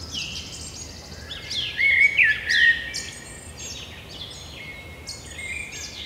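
Birdsong: several birds chirping and singing with quick, overlapping, downward-sweeping whistles, loudest about two seconds in.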